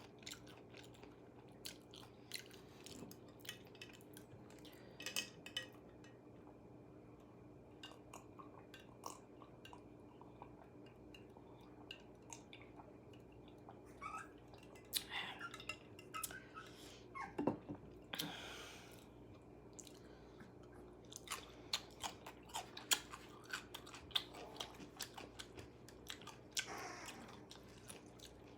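A person chewing and biting KFC food close to the microphone: irregular crunches and wet mouth clicks, with a few longer, wetter smacking sounds around the middle and near the end.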